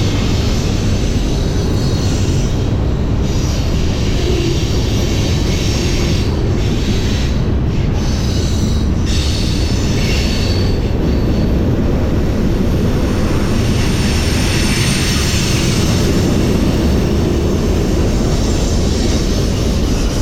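A train rolling through a railroad tunnel at close range: a loud, steady rumble of wheels on the rails, with thin high metallic wheel squeal coming and going above it.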